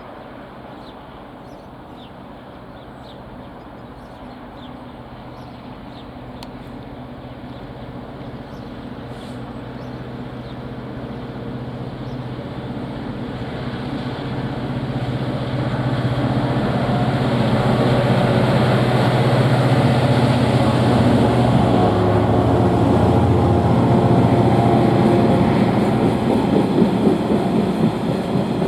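Diesel locomotive approaching, its engine note and rail noise growing steadily louder for about seventeen seconds, then staying loud through the second half.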